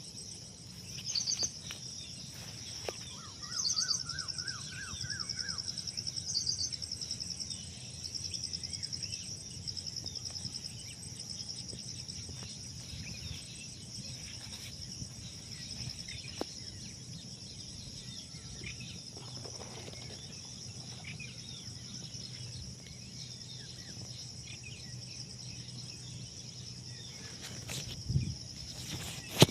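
Morning outdoor ambience: a steady, high-pitched insect trill runs throughout, with several birds calling over it in the first few seconds, one giving a quick rising series of chirps. A low steady hum sits underneath, and a couple of knocks come near the end.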